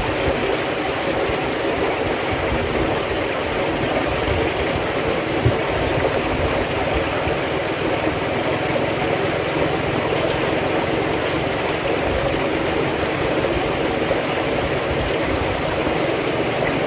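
Steady rushing, water-like noise, even throughout with no breaks.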